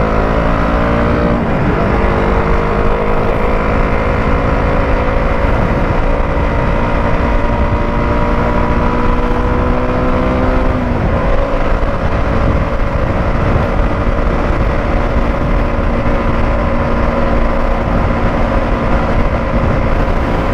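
KTM Duke 200's single-cylinder engine pulling the motorcycle under way. The revs climb and break for a gear change about a second and a half in, rise slowly, drop at about eleven seconds and then hold steady. A thick rush of wind noise runs underneath.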